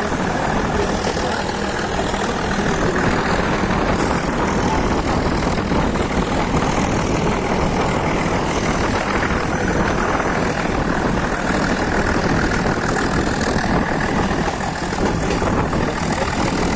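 Steady rumbling running noise of a Nilgiri Mountain Railway train in motion.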